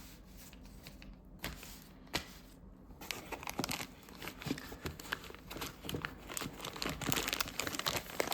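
Packaging being handled and crinkled as a box is opened and its contents unwrapped. There are a few scattered clicks at first, then dense crinkling and rustling from about three seconds in, louder near the end.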